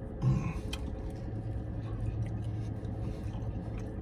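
Soft chewing of a flatbread sandwich, with faint scattered mouth clicks, over a steady low hum inside a parked car's cabin. One brief louder sound about a quarter second in.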